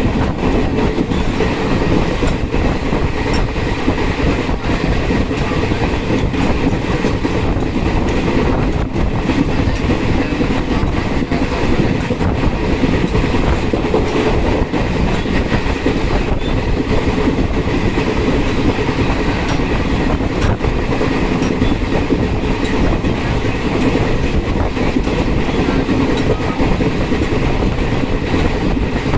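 Passenger train running at speed, a steady rumble of wheels on rails with repeated clicks of the wheels over rail joints.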